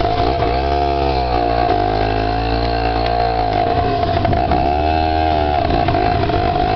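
Small dirt bike engine running under way, its pitch rising and falling three times as the throttle opens and closes, over a steady higher engine drone.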